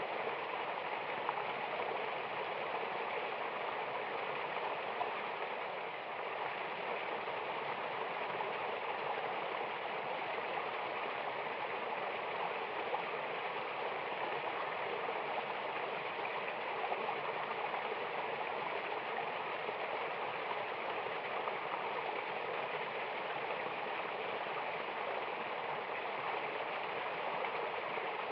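Rushing water of a mountain waterfall, a steady, unbroken rush.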